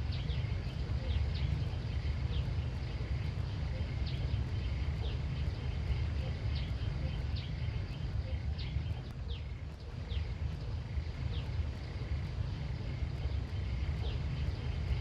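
Countryside outdoor ambience: a steady low rumble under a continuous high insect-like drone, with short high falling chirps about once a second.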